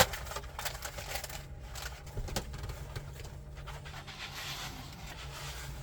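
Scattered clicks, scratches and rustling as a binocular carrying pouch and its packaging are handled and opened, with a sharp click right at the start, over a steady low hum.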